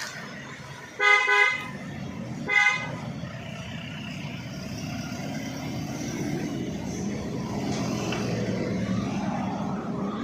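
A vehicle horn honks twice, the first blast about half a second long and the second shorter, a second and a half apart. A truck engine runs underneath with a low rumble that gradually grows louder.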